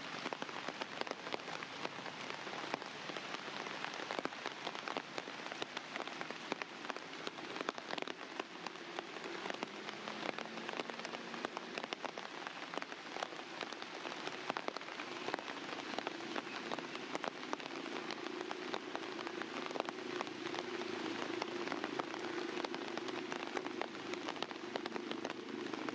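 Steady rain falling on a surface, with many individual drops ticking through the hiss. A faint low hum comes in about ten seconds in and grows toward the end.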